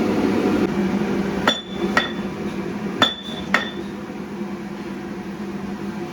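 Hammer striking steel four times, in two pairs about half a second apart, each strike ringing briefly. A steady machinery hum runs underneath.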